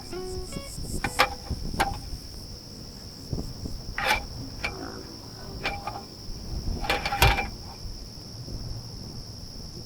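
Crickets trilling steadily while metal camping cookware clinks and knocks about seven times as the pots are handled to start cooking.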